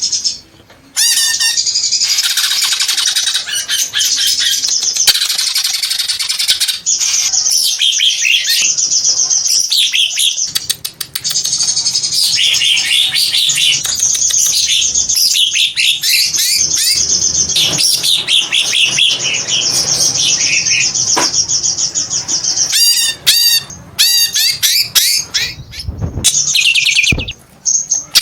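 Green leafbird (cucak ijo) singing almost nonstop: a fast, loud run of chattering, whistled and squawking notes, breaking off briefly just after the start and again shortly before the end.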